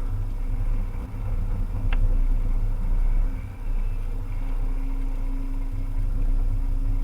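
Volvo EC300E excavator's diesel engine running steadily with a deep rumble, with a single sharp click about two seconds in.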